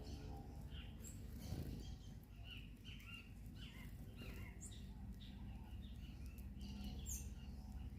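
Several small birds chirping in short, quick notes, with now and then a higher, sharply falling call; a faint low steady hum sets in underneath about five seconds in.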